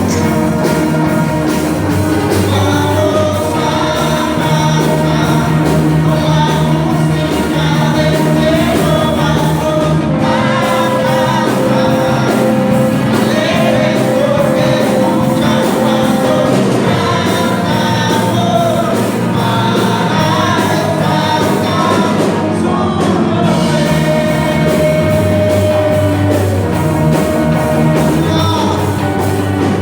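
Church worship band playing a song with a singer over it during a sound check, loud and continuous.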